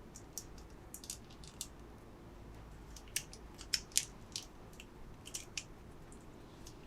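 Scattered light, sharp clicks and crinkles of plastic packaging and small plastic pieces being handled, with the loudest cluster about three to four seconds in.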